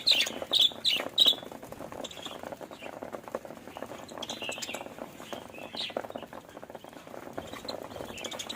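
Budgerigars chirping, with several loud sharp chirps in the first second and a half, then softer chirping and chatter over a steady scratchy clicking.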